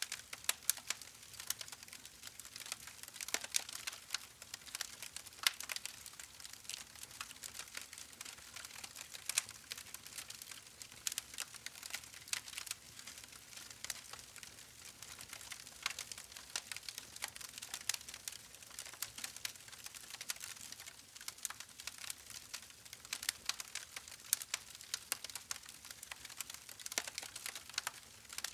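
Wood fire burning in a fireplace: a steady hiss with frequent irregular crackles and sharp pops.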